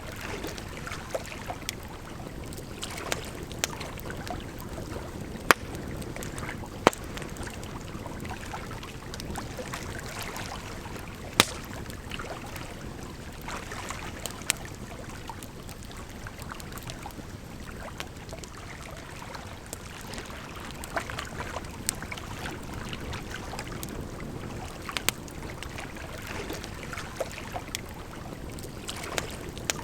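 Campfire crackling with irregular sharp pops, a few of them loud, over a steady rush of flowing water.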